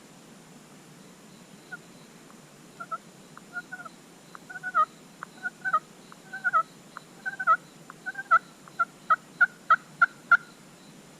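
Turkey yelping: a long run of short yelps, each breaking down in pitch, growing louder and quicker, ending in an even series of about three yelps a second.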